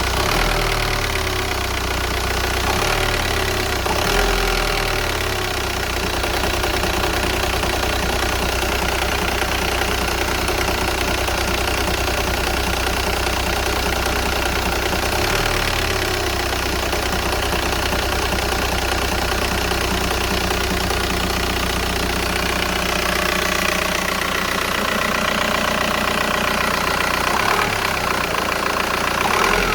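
Volkswagen Golf 4's 1.9 TDI 110 hp diesel engine idling with a low rumble that shifts a few times. The owner reports the engine shaking as revs drop after a blip, and suspects an injector or the flywheel.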